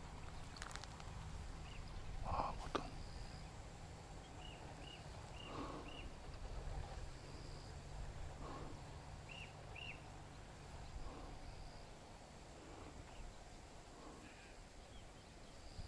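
Faint outdoor ambience: a small bird giving short high chirps in quick runs of two to four, with a few soft rustles over a low steady background noise.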